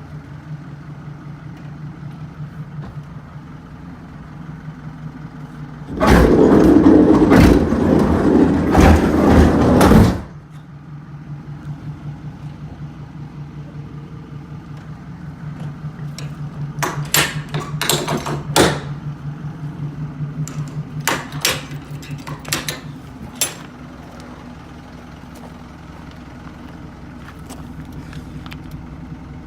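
Hino Dutro light truck's engine idling steadily, broken about six seconds in by a loud rushing noise lasting about four seconds. Later comes a run of sharp clicks and knocks.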